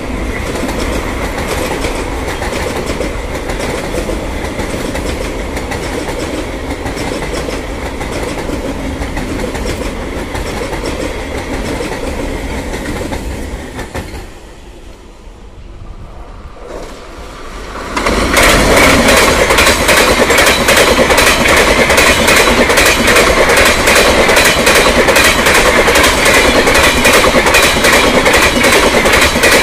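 An electric suburban local (EMU) train runs past on a nearby track, with steady wheel and rail noise. After a cut and a quieter few seconds, an express hauled by a WAP7 electric locomotive passes close at about 110 km/h: a loud, fast clickety-clack of LHB coach wheels over the rail joints, the loudest part.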